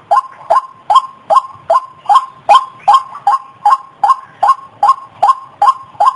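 White-breasted waterhen calling: a short, sharp note repeated steadily about two and a half times a second. This is the ruak-ruak call used as a lure to draw in the birds.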